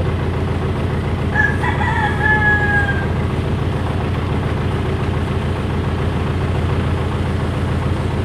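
A rooster crows once, a long call starting about a second in, over the steady low hum of an idling engine.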